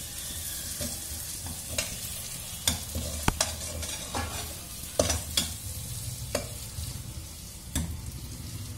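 Chopped vegetables in chilli and tomato sauce sizzling in a pot while a metal spatula stirs them, scraping and knocking against the pot's sides every second or so.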